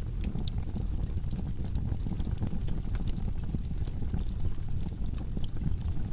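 Log fire burning in a fireplace: a steady low rumble of the flames with frequent small crackles and pops from the burning wood.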